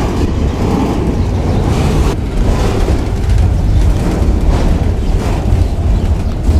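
Freight train of autorack cars rolling past a grade crossing: a steady rumble of steel wheels on rail with a few faint clicks. The sound is heavy in the low range, mixed with wind on the microphone.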